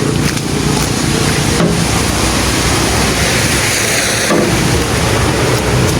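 A vehicle engine running steadily, buried under a loud, even rushing noise that swells for a moment in the middle.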